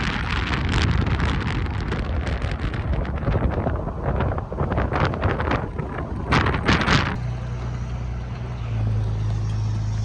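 Wind buffeting the microphone with a rushing, gusty roar over a motor. About seven seconds in it gives way abruptly to a steady low engine hum.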